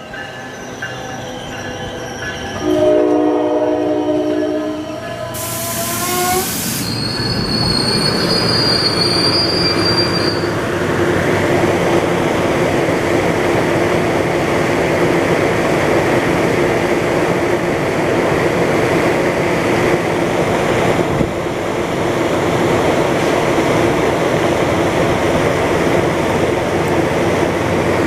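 Diesel commuter train led by an ALP-45DP dual-mode locomotive running on its diesel engines arrives. Its air horn sounds a few seconds in, then a short hiss follows. High-pitched brake or wheel squeal comes at about eight to ten seconds. After that a loud, steady rumble of engine and rolling wheels holds for the rest.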